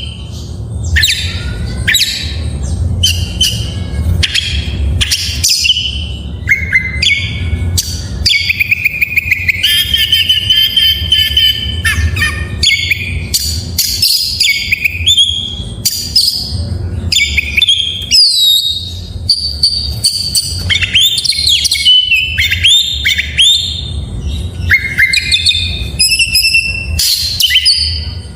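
Oriental magpie-robin (kacer) singing a long, varied song of whistles, sliding notes and rapid chirps, full of mimicked calls of other birds ('full isian'), over a low steady hum.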